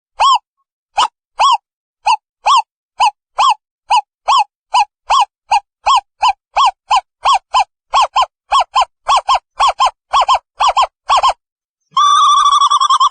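Owl calling: a run of short hoots, each rising and falling slightly in pitch. The hoots speed up steadily and near the end break into a fast, continuous trill.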